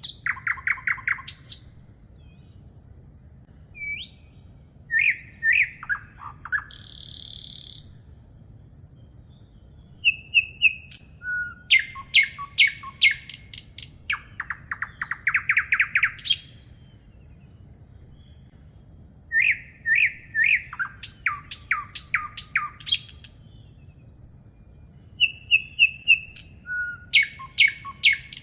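Songbirds singing: one song phrase of short clear whistles followed by rapid trills, repeated about every seven seconds, with a brief hissing buzz near the start.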